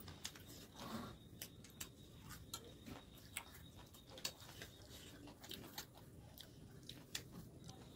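Quiet eating of chicken biryani: faint, irregular small clicks and smacks of chewing.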